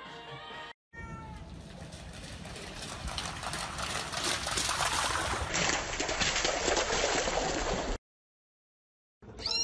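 Steady hiss of rain and splashing on a wet paved yard as a dog runs through it, growing louder over several seconds and cutting off abruptly. Just before the end, a kitten starts meowing with high, falling cries.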